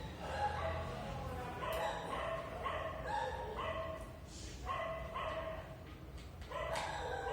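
A dog barking in a run of short pitched calls, with brief pauses.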